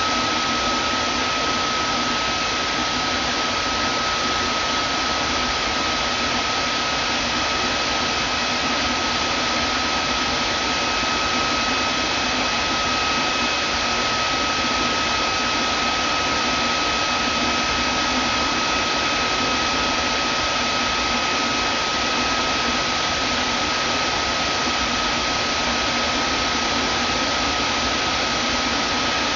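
Vacuum cleaner running steadily: an even rushing of air with a constant high whine from the motor.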